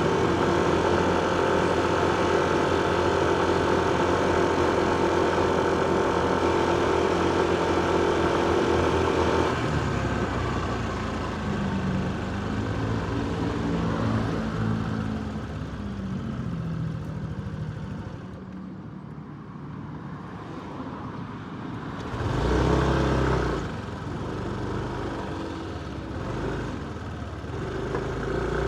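Motorcycle engine idling steadily in city traffic, then pulling away with its pitch rising and falling as it accelerates. A brief louder surge of engine noise comes about 22 seconds in.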